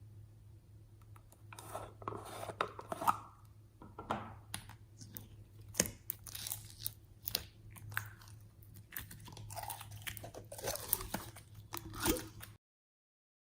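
Hand-made crunching and tearing sounds from slime-mixing ASMR: an irregular series of crackly crunches and crinkles over a low steady hum, starting about a second and a half in and stopping abruptly near the end.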